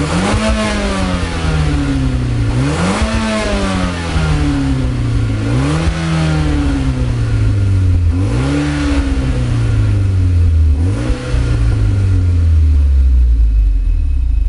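Mitsubishi Lancer Evolution X's turbocharged 2.0-litre inline-four (4B11T) exhaust through a Kakimoto Class KR muffler, revved about five times, each rev rising quickly and falling back slowly, then settling to a low, steady note near the end.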